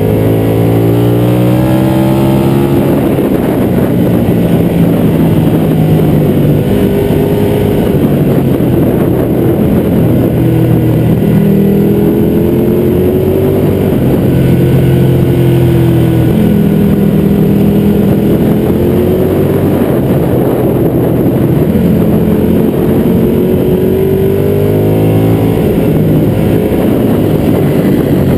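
A 2012 Ducati 1199 Panigale's 1198 cc Superquadro L-twin at track pace, its pitch climbing as the bike accelerates and dropping back again several times through the lap. Heavy wind rush over the fairing-mounted camera runs under the engine throughout.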